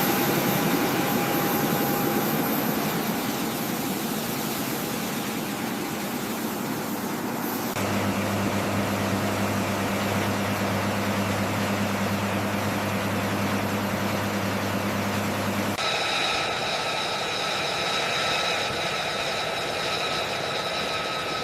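Steady drone of aircraft engines, a continuous wash of noise that changes abruptly twice: about eight seconds in a low steady hum comes in under it, and about sixteen seconds in the hum drops away and a higher whine with several steady tones takes over.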